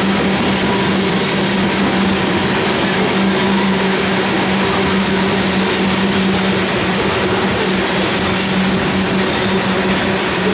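Loaded coal cars of a freight train rolling past on steel rails: a loud, steady rolling noise with a constant low hum running through it.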